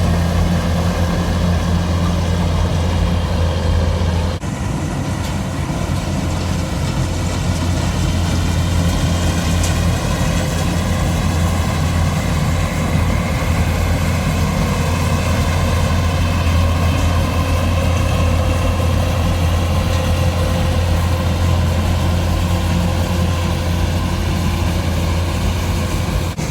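Combine harvester's engine running steadily with a deep, continuous hum, dipping briefly about four seconds in.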